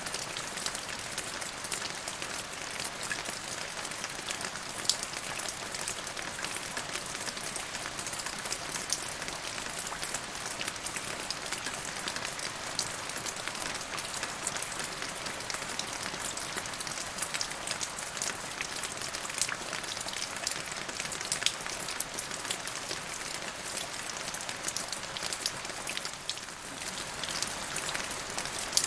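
Steady rain falling, with a dense patter of many small drops hitting a surface.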